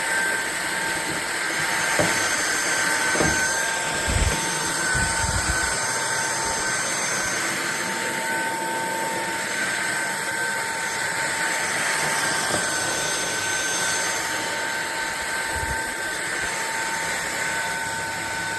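Fieety cordless stick vacuum cleaner running steadily, a constant rushing noise with a high whine. A few low bumps come in the first few seconds.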